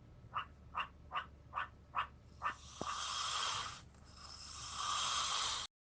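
A frog croaking in a regular series of short calls, about two and a half a second. Then, about a second in after the croaks stop, a louder continuous hissing sound comes in two stretches and cuts off abruptly near the end.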